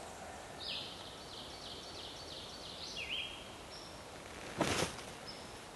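A songbird singing a quick series of about eight repeated high notes, then a few short single notes. About three quarters of the way through comes one brief, louder rustle or crunch.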